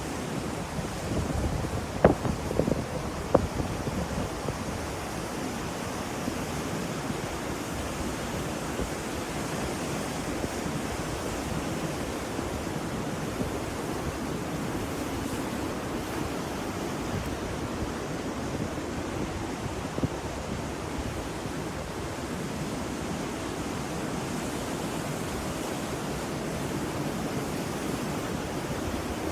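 Ocean surf washing in a steady, even rush, with a few sharp clicks about two and three seconds in and once more later on.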